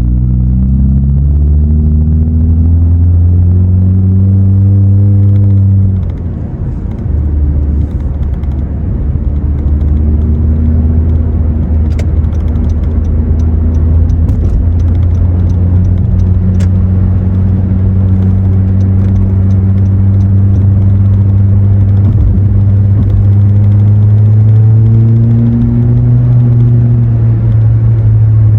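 A 2017 Honda Accord LX's 2.4-litre four-cylinder with a muffler delete, heard from inside the cabin, pulling away from a light in sport mode. The exhaust note rises in pitch for about six seconds and drops off suddenly. It then settles into a loud, steady drone that climbs slowly.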